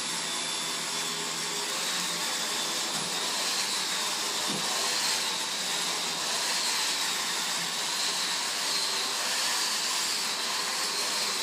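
Steady, even machine-like noise with a faint, slightly wavering high whine running through it.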